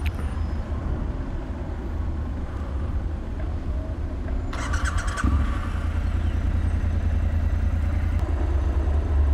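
Triumph Scrambler 1200's parallel-twin engine running at low speed in stop-and-go city traffic: a steady low rumble with road traffic around it. A brief, sharper higher sound cuts in about five seconds in.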